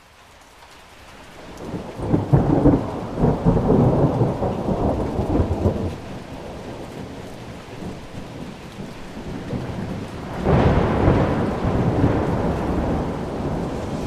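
Thunder rumbling over steady rain, fading in from silence at the start. A long rolling peal builds about two seconds in and lasts several seconds, and a second rumble breaks out about ten seconds in and slowly dies away.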